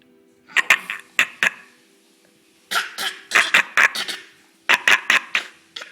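Short, breathy vocal noises in three quick clusters, about a second in, around three seconds in and near the end, with quiet gaps between.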